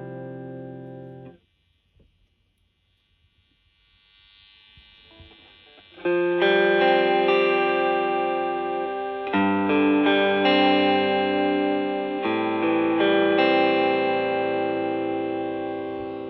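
Electric guitar played through a Suhr Shiba Drive Reloaded, a Tube Screamer-style overdrive pedal, giving mildly overdriven chords. A ringing chord is muted about a second in and a few seconds of near silence follow. Then chords are struck about six seconds in and changed twice, each left to ring, fading near the end.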